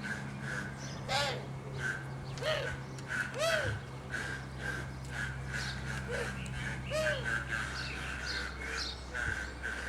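Birds calling: a steady run of short chirps about twice a second, with several louder, harsher arched calls mixed in.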